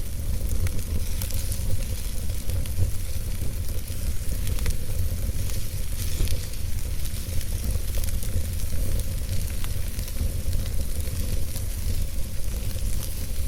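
Wood fire burning in a fireplace: a low steady rumble of flame with many small crackles and pops from the logs.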